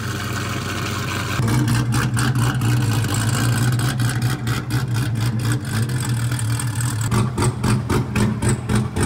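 C8 Corvette V8 running as the car is driven slowly: a steady low engine note that grows louder about a second and a half in, with a fast, even ticking over it.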